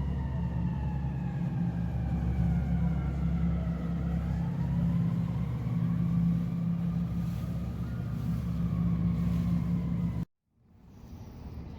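A heavy engine running with a deep steady rumble, over which a higher whine slowly glides down and then back up. The sound cuts off abruptly about ten seconds in.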